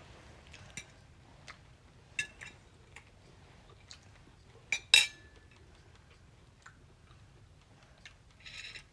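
Light clinks and taps of tableware during a meal. One louder ringing clink comes about five seconds in, and a short scrape comes near the end.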